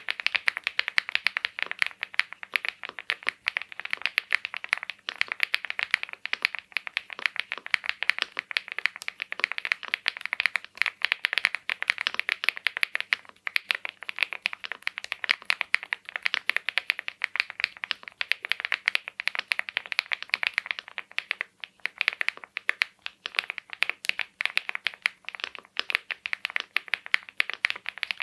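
Leobog Hi8 mechanical keyboard with BSUN Roselle linear switches typed on quickly and continuously: a dense stream of key clacks with a few short pauses.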